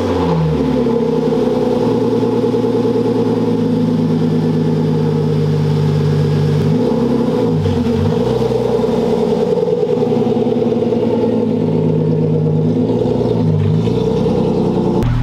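BMW E36's swapped-in M52 inline-six running loud with no proper exhaust, idling just after being started. The revs dip and pick up again briefly about halfway through and again near the end as the car pulls away.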